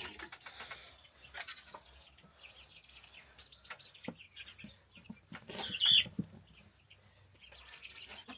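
Chickens calling, a run of many short high chirps, with one louder call about six seconds in and a few light clicks.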